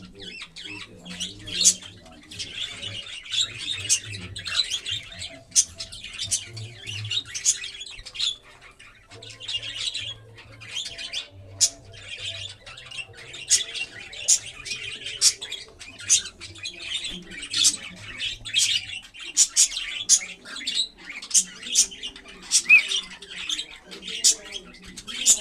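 Pet cockatiels chirping and squawking, many short shrill calls overlapping with sharp chirps all the way through.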